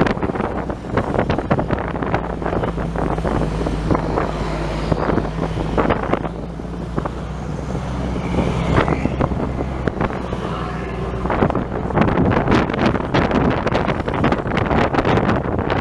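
Motor vehicle driving along a road: a steady low engine hum under road noise, with wind buffeting the microphone in gusts, heaviest near the end.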